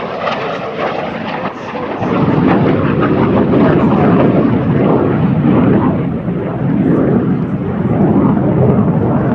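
A MiG-17F's turbojet engine during a low pass: a loud jet noise that jumps up about two seconds in, then swells and eases slowly as the fighter goes by.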